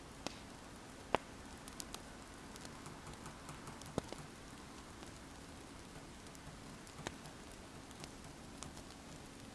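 Wood fire crackling: scattered sharp pops over a faint steady hiss, the loudest pops about a second in and about four seconds in.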